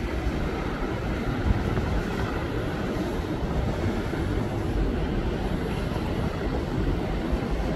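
Wind buffeting the microphone: a steady rumbling noise, heaviest in the low end, that rises a little in the first second.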